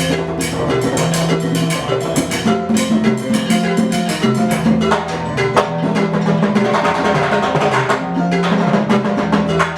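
Afro-Cuban percussion music played live: dense, fast drum and stick strokes over a repeating line of held low pitched notes.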